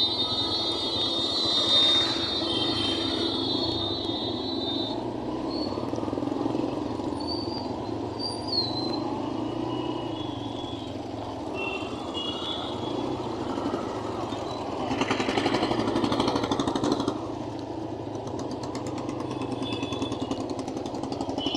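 Motor vehicle engine running steadily, with a high steady tone in the first few seconds and a louder hiss for a couple of seconds about fifteen seconds in.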